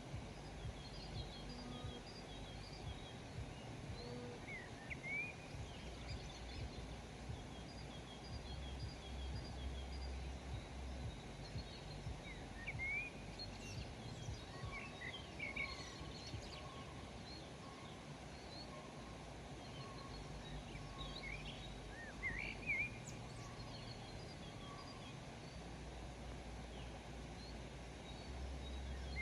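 Several wild birds chirping and calling over a steady low rumble of outdoor background noise. Short rising chirps come scattered throughout, with a run of repeated high notes in the first few seconds and a softer row of lower repeated notes through the middle.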